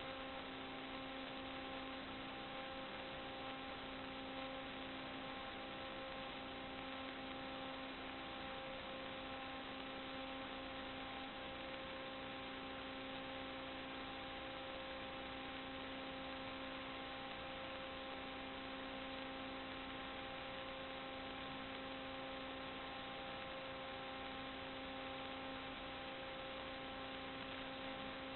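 Steady electrical hum made of several even tones over a constant hiss, unchanging throughout: the recording equipment's own electrical noise, not any sound from the pipe.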